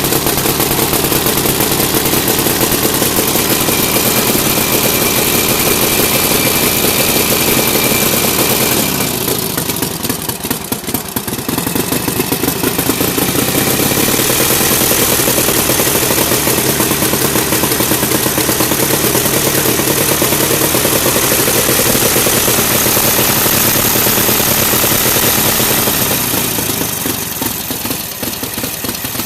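Restored 1946 Harley-Davidson UL 74-cubic-inch flathead V-twin running on an engine run stand. The revs drop about nine seconds in, pick back up a few seconds later, and ease off again near the end.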